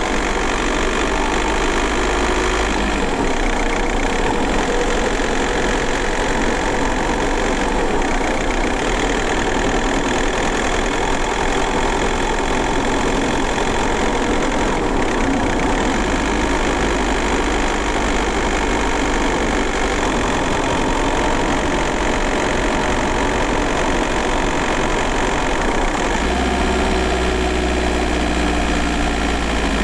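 VW Golf Mk4 1.9 TDI (AJM) four-cylinder turbodiesel running at low, fairly steady revs, heard from inside the car, with the engine note shifting in pitch near the end.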